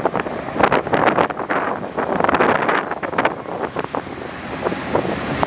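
Freight train rolling past close by: many irregular clanks and clicks of wheels and cars over the track under a steady rumble, with wind on the microphone.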